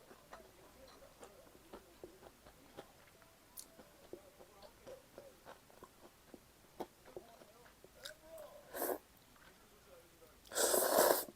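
Close-miked chewing with small wet mouth clicks and crunches. Near the end comes a short, loud rush of air.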